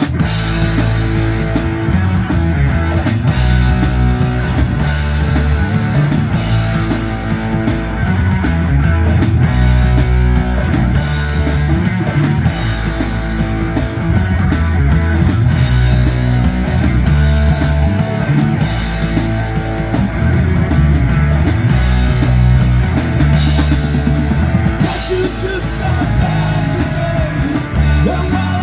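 Live rock band playing loudly: drum kit, bass and electric guitar, all coming in at once at the start.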